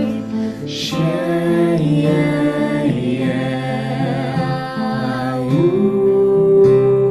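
Chanted singing of long held vowel syllables such as "O", "away" and "shay", over acoustic guitar. About five and a half seconds in, the voice slides up to a higher note and holds it.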